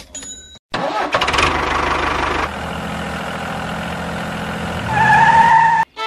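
Tractor engine sound effect dubbed onto a toy model tractor: it cranks with a pulsing sound and then settles into a steady idle. About five seconds in, a louder, slightly rising higher tone joins it, and the sound cuts off suddenly just before the end.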